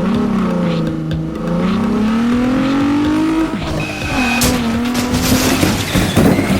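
Car engine revving: the pitch dips, then climbs steadily for about three seconds before dropping back to a steadier, lower note.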